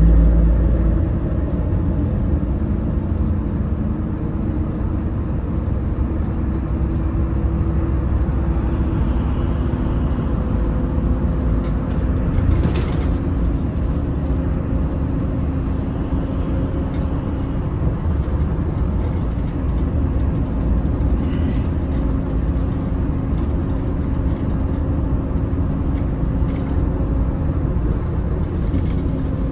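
Daewoo Bus FX116 coach's diesel engine running steadily under way, with road noise. Its hum shifts in pitch a little now and then, and a short louder noise comes about twelve seconds in.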